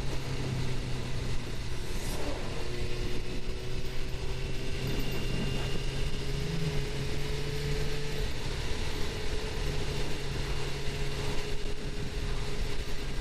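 Suzuki GSX-R750's inline-four engine running at a steady cruise, its pitch creeping up slightly over the first half, under steady wind rush.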